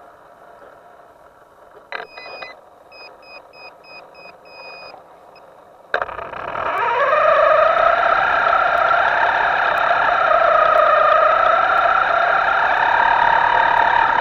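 A click and a run of short electronic beeps, then a sudden loud whine that rises in pitch over about a second and holds steady with a slight waver.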